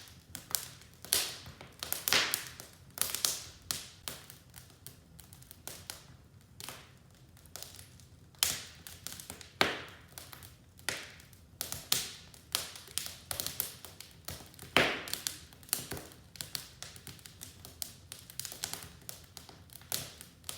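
Wood fire crackling in a fireplace: irregular sharp pops and snaps, some loud and many faint, over a low steady hiss.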